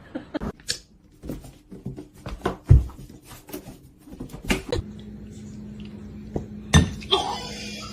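Clattering and knocking of household objects: a string of separate sharp knocks and clicks, with a steady low hum joining in about five seconds in.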